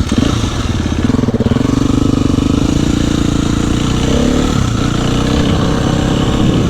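Dirt bike engine revving up as the bike moves off, then running under varying throttle with its pitch rising and falling.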